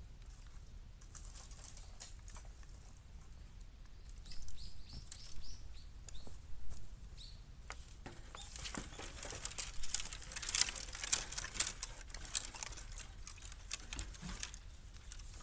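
Bamboo burning in a bottomless square metal can, crackling and snapping, with the snaps thickest from about eight to fourteen seconds in. A quick run of high chirps comes about four seconds in.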